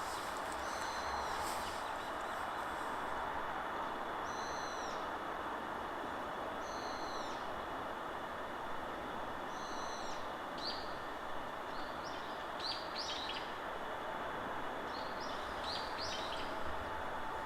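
Small songbirds calling over a steady rush of wind in the forest trees. One bird repeats a short two-part call about every two to three seconds, and from about ten seconds in there are quick runs of short falling chirps, twice.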